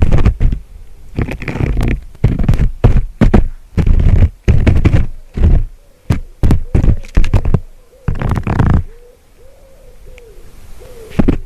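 Loud, irregular knocks and thumps close to the microphone for the first nine seconds or so, then a faint call repeated in short low hoots.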